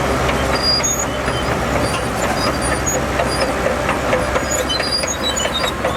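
Shantui DH17C2 bulldozer's diesel engine running steadily, with many short squeaks and clanks from its steel tracks and undercarriage.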